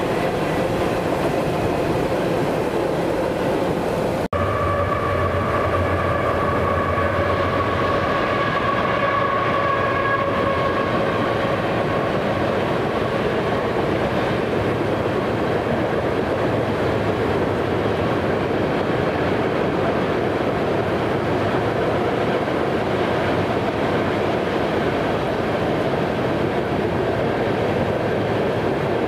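Train passing with continuous rail and wheel noise. There is a sudden brief break about four seconds in, after which a steady tone sounds and fades away over the next several seconds.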